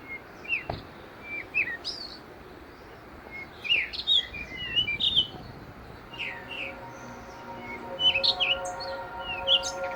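Songbirds chirping, with many short whistled notes and quick chirps overlapping. About six seconds in, a set of steady held tones comes in underneath.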